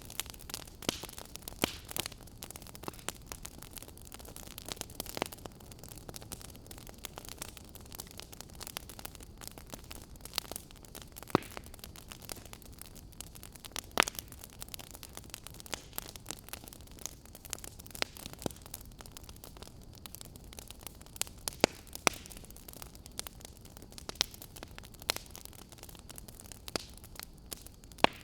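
Wood fire crackling in a fireplace: irregular sharp pops and snaps over a low steady hiss, with a few louder pops now and then.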